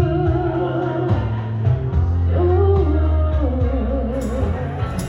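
Live band music: a wavering, held melody over a steady bass line, with cymbal strikes coming in about four seconds in.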